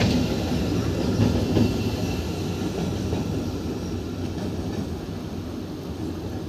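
Passenger train coaches rolling over a steel girder rail bridge, a steady rumble with a few wheel clacks in the first two seconds, fading steadily as the train moves away.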